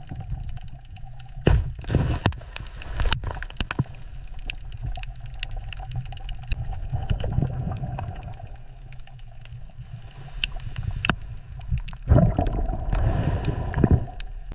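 Water sounds: a constant low rumble with gurgling and many scattered knocks and clicks, growing busier about twelve seconds in.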